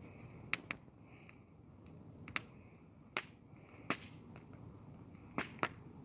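Wood bonfire crackling: sharp, irregular pops and snaps, about seven of them, over a low steady background.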